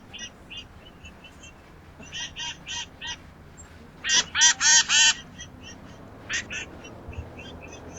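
A bird giving runs of short, nasal, quacking call notes, about three or four a second, with the loudest run of four about halfway through.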